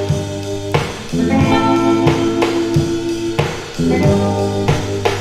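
Instrumental passage of a surf/garage rock song: electric guitar playing sustained chords that change every second or so, with bass and a steady drum-kit beat, no vocals.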